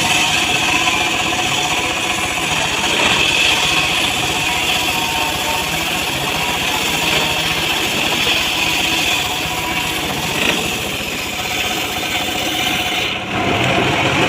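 Engine running steadily, with a brief dip in level about 13 seconds in.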